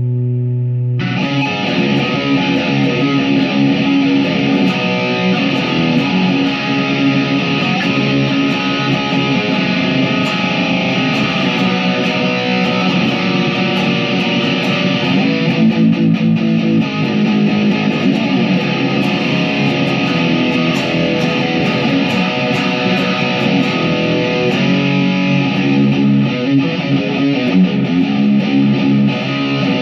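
Chapman SAR63 electric guitar, tuned to drop C sharp, played through a high-gain Friedman-style amp preset. A held chord rings for about a second, then distorted chord riffing and strumming carries on, changing pattern about halfway through and again near the end.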